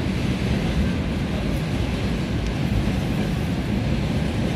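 Steady rumble and noise of a passenger train running along the track, heard from inside the carriage.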